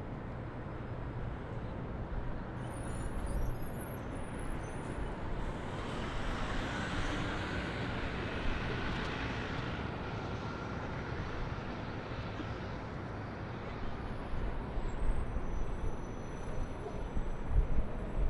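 Steady city traffic noise, with a vehicle passing louder in the middle and faint high squeaks about three seconds in.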